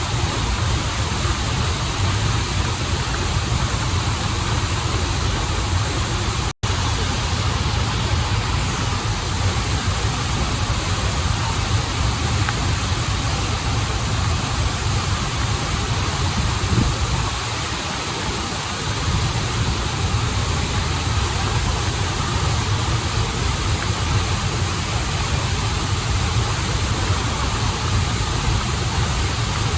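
Steady rushing of a waterfall and stream, a constant hiss over a deep low rumble. It cuts out for a split second about six and a half seconds in.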